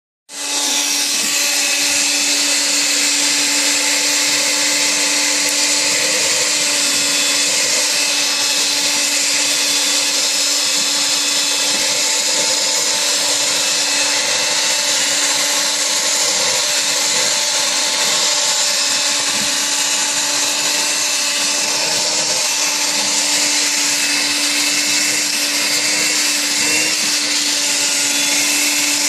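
Philips PowerPro Duo FC6162 cordless stick vacuum cleaner running steadily: a constant motor hum under a loud airy rush of suction.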